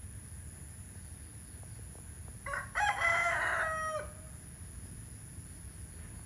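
A rooster crows once: a single call of about a second and a half, with a stepped start and a pitch that drops off at the end, over steady low background noise.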